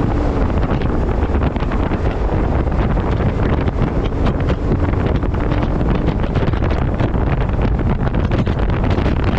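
Heavy wind buffeting a camera microphone strapped to the front of a moving refuse truck: a loud, steady, low rumbling rush with constant flutter.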